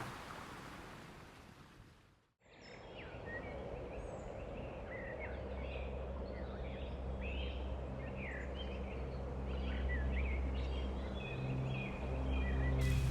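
A rushing outdoor noise fades away in the first two seconds. Then a flock of birds chirps and calls in many short, quick notes over a low, steady rumble.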